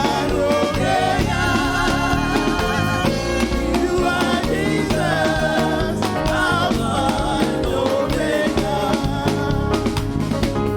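Gospel praise-and-worship music: voices singing with vibrato over a band, with bass and drums keeping a steady beat.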